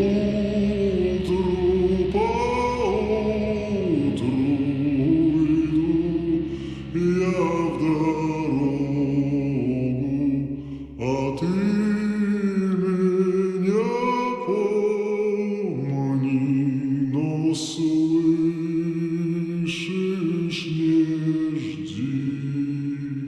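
Slowed-down, heavily reverberated song: voices singing a long, drawn-out melody over a low drone, which drops out about halfway through.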